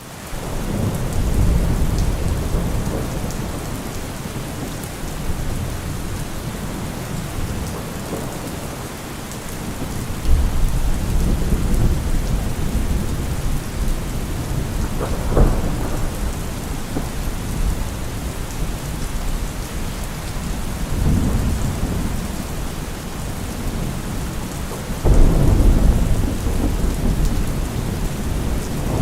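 Steady rain falling with rolling thunder: deep rumbles swell at the start, again about ten seconds in, and again near the end, with a sharper crack about halfway through.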